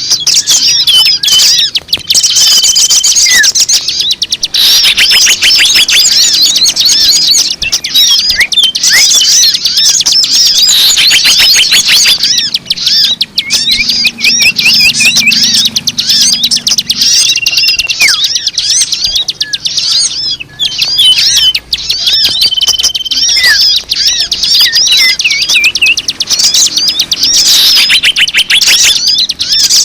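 A dense chorus of many small birds chirping and twittering without a break, with a few short, level whistled notes standing out. It is a bird-lure recording, played to draw in all kinds of birds.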